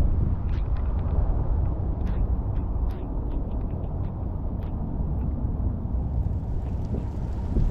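Rain falling: a steady rushing noise with scattered sharp drip ticks, over a heavy low rumble.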